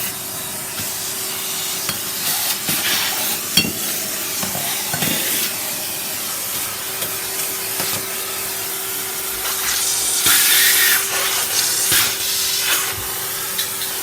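Vacuum cleaner running steadily with a constant motor hum under its hiss, with a few short knocks and a louder stretch about ten seconds in as it is pushed over the floor.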